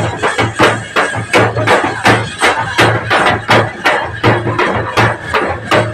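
Procession drums playing a fast, loud rhythm, sharp hits about four times a second over a deep repeating low beat.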